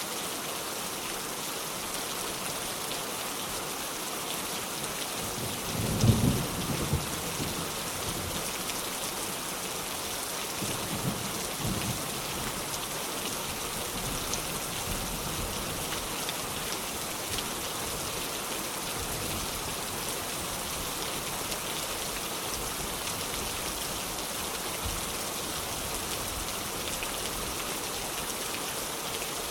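Heavy rain falling in a steady hiss, with thunder: a sudden loud clap about six seconds in that rumbles away over a second or two, and a fainter rumble around eleven seconds in.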